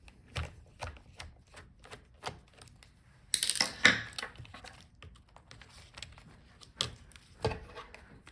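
Light clicks and taps of small plastic and metal laptop parts being handled while a DC power jack cable is unplugged from a laptop motherboard, with a louder cluster of scraping clicks about three and a half seconds in and two sharper knocks near the end.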